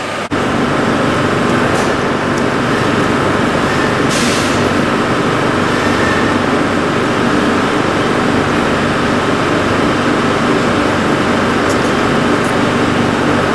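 Portable valve grinder (LarsLap Model C1) switched on and running steadily as it laps a valve's gasket seating surface, a loud even machine sound with a steady hum. There is a brief hiss about four seconds in.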